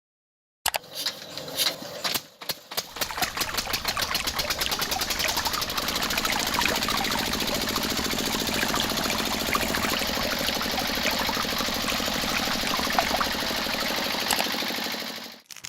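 A small motor-driven mechanism starting up: its clicking speeds up over the first few seconds into a steady, rapid mechanical whirring rattle, then cuts off near the end.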